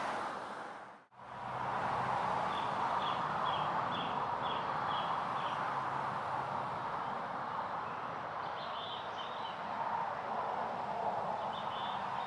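A bird calls a run of about seven short high notes, two a second, then gives brief chattering bursts twice later, over a steady background hiss.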